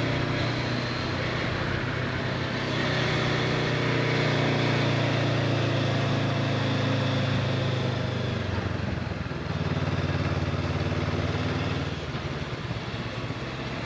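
Honda CB500X parallel-twin engine running steadily while riding, over a loud steady hiss. Its note dips about nine seconds in and eases off again near the end.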